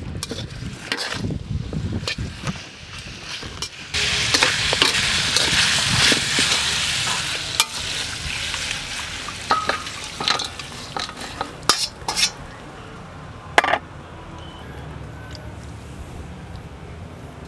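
Chicken frying in a steel wok, stirred and scraped with a metal spatula. About four seconds in, a loud sizzle starts suddenly and slowly dies away. Sharp clinks of metal utensils follow.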